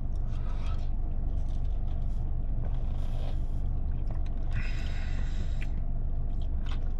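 A man chewing a dry fried chicken sandwich, with short mouth noises about three and five seconds in, over a steady low hum.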